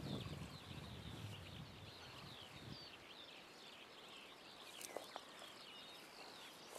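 Faint birdsong from many small birds, short chirps overlapping continuously. A low rumble runs through the first three seconds, and there are a couple of soft clicks about five seconds in.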